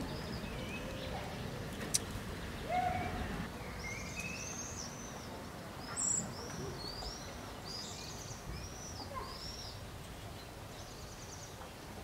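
Small birds chirping: a long run of short, high, arched notes in quick succession from about four seconds in, over a steady outdoor background. A sharp click sounds about two seconds in.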